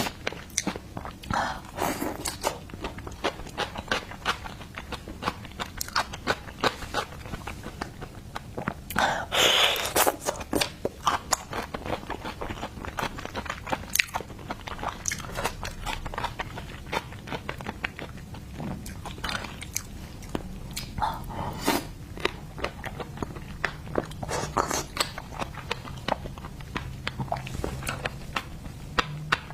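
Close-miked mukbang eating of seafood: wet biting and chewing with many sharp crunchy clicks, and a denser crunching burst about nine seconds in.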